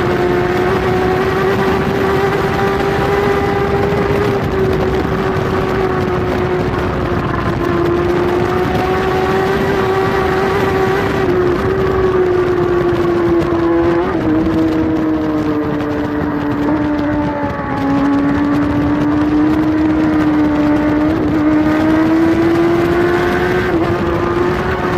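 Kawasaki superbike's inline-four engine at high revs, heard from on board with wind rush. The engine note holds high and steady, dips for a few seconds past the middle, then climbs back, with small steps at gear changes.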